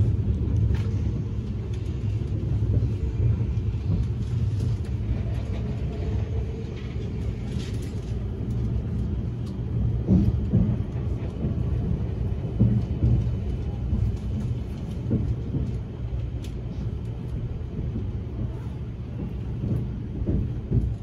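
Ride noise inside an E257 series electric limited express train car running along the track: a steady low rumble, with a few short knocks about halfway through.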